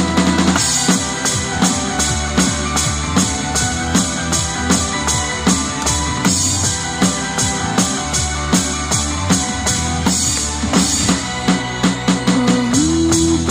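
Drum kit played along to a recorded pop song: a steady beat of evenly spaced hits on cymbals, snare and bass drum over the song's backing music.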